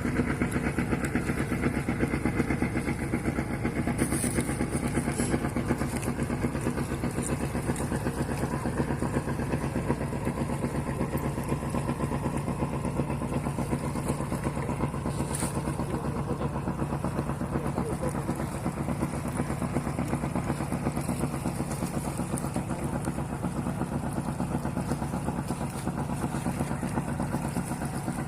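Fishing boat engine running steadily, a fast, even chugging with a steady pitch.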